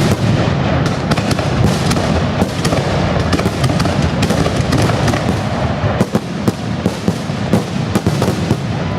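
Fireworks display: a dense, unbroken barrage of bangs and crackles, many reports a second over a continuous low rumble.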